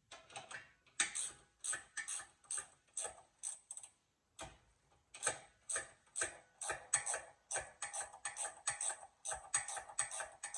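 Ratchet wrench clicking in short strokes as a sway bar end link nut is tightened down. The clicks come about two a second at first, stop briefly around four seconds in, then speed up to a quicker run of four or five a second.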